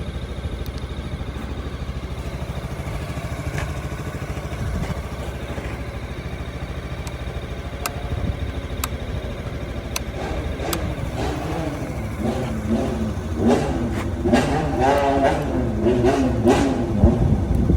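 Honda Forza X (MF10) scooter's 250 cc single-cylinder engine idling steadily, then revved in a series of throttle blips over the second half, its pitch rising and falling each time.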